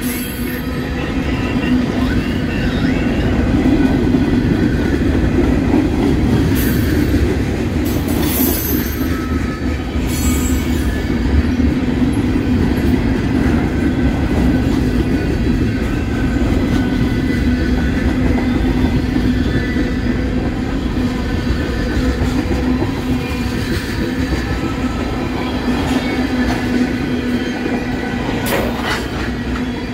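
A railway train rolling past with a steady rumble and a low, even hum. A few sharp clicks break through, at about seven to ten seconds in and again near the end.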